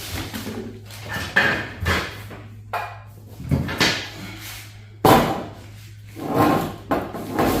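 A string of about eight sharp knocks and clunks, uneven in timing, as metal server parts such as a power supply unit are picked up, moved and set down on a work surface.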